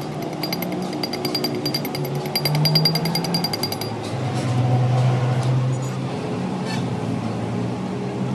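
A power tool working metal gives a rapid, even rattle of strikes that stops about four seconds in. Background music with a low melody runs under it.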